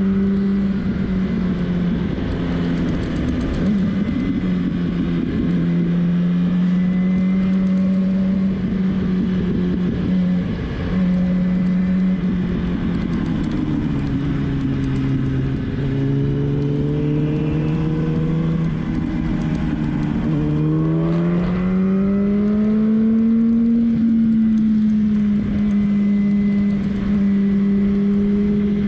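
Sport motorcycle engine heard onboard over rushing wind, holding steady revs. About halfway through the revs drop for several seconds, then climb as it accelerates and settle at a slightly higher steady pitch.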